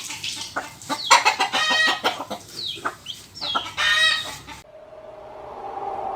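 Chickens clucking, a quick run of short calls mixed with a few longer ones, cutting off abruptly about four and a half seconds in. A steady low hum follows.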